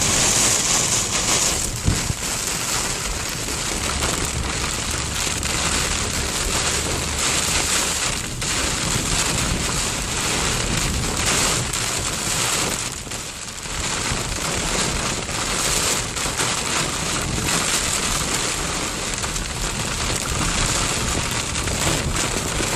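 Heavy rain pouring down in a steady, dense hiss, with a single sharp tap about two seconds in.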